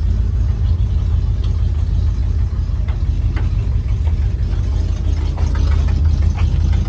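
1977 Ford F350's 400 V8 idling steadily, a low even rumble.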